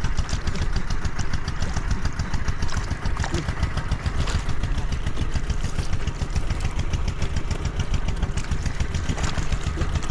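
A small engine running steadily at an even speed, its firing pulses coming in a fast, regular beat.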